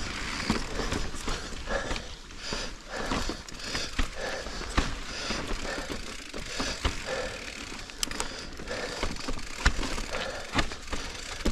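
A 2021 Giant Reign full-suspension mountain bike being ridden over rock, with a run of knocks, rattles and clicks from the bike and tyres over a steady rush of wind noise.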